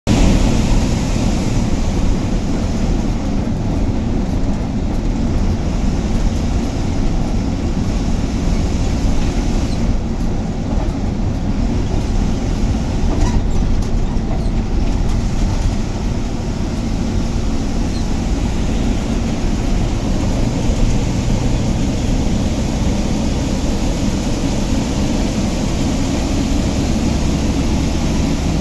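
KSRTC bus under way, heard from on board: a steady low rumble of engine and road noise.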